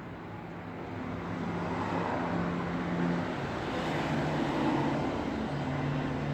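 Road traffic: vehicle engines running with a steady hum of tyres on the road. It swells louder over the first few seconds, then holds.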